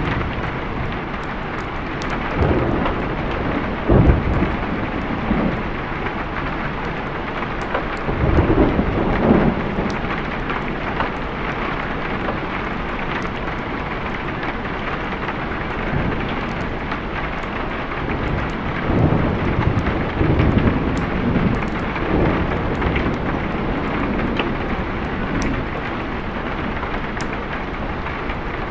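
Steady rain with repeated rolls of thunder: a sharp, loud clap about four seconds in, a longer rumble around eight to ten seconds in, and further rumbles around twenty seconds in.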